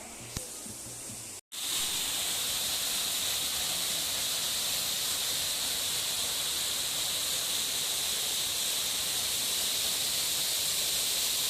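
Steady, even hiss of rushing water, starting abruptly about a second and a half in after a brief dropout.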